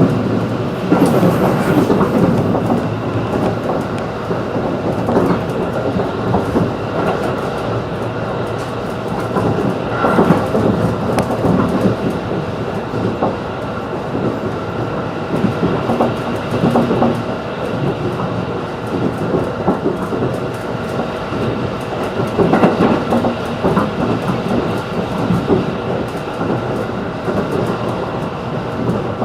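Running noise inside a JR 211-series electric train at speed: a steady rumble of wheels on rail with irregular clacks over rail joints and a faint steady high tone.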